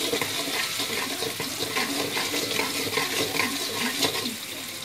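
Minced garlic and coarsely pounded shallots frying in hot oil in a wok: a steady sizzle with scattered small pops.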